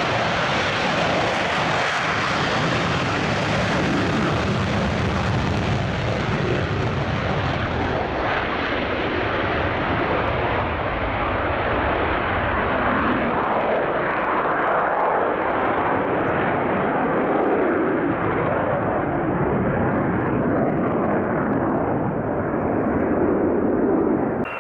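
Military fighter jet's engines, loud and steady, with the high hiss slowly dulling as the jet draws away.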